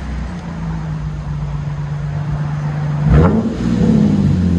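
Lexus IS 250's 2.5-litre V6 through a fully straight-piped exhaust, idling steadily, then blipped once about three seconds in, the pitch jumping up and falling back toward idle.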